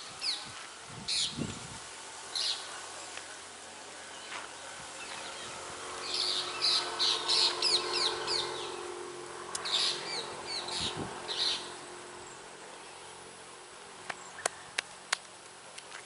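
Wild birds chirping in short high bursts, busiest through the middle. Several sharp clicks come near the end.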